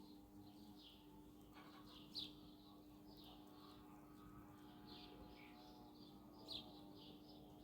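Faint small-bird chirping: a steady run of short high chirps, about two a second, with a louder, sharper chirp about two seconds in and another near the end.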